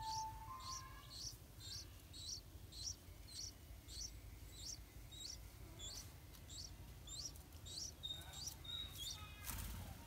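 Birds chirping: a short high chirp repeated steadily about twice a second over a low background rumble. Near the end there is a brief rustling whoosh of wings and leaves as the adult yellow-vented bulbul flies off from the nest.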